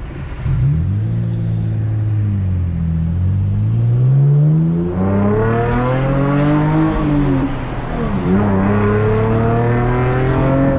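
V6 Camaro with its muffler deleted, its exhaust note climbing as the car accelerates through the gears and falling back at each shift of the manual gearbox.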